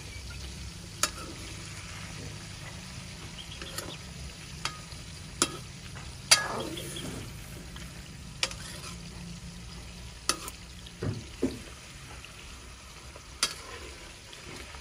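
Chopped bitter gourd sizzling as it fries in ghee in a metal wok, stirred with a metal spoon that clinks against the pan about ten times, loudest about six seconds in.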